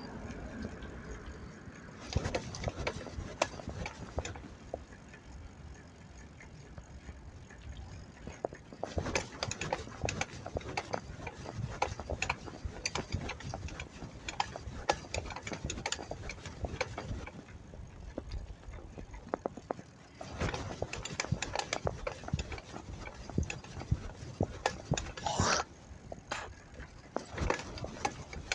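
Bicycle rattling and clicking in irregular bursts of sharp ticks as it rolls, typical of a freewheel and loose parts on a ride, with a brief squeal about 25 seconds in.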